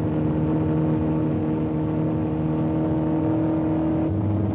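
Ford Mustang I concept car's 1.5-litre V4 engine running at a steady pitch while driving along a track. The engine note changes about four seconds in.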